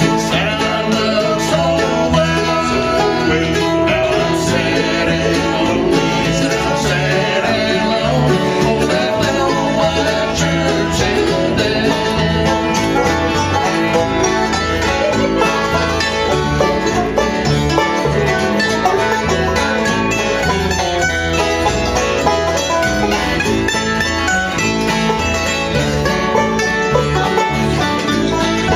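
Bluegrass band playing live, led by picked banjo over strummed guitar with a steady beat.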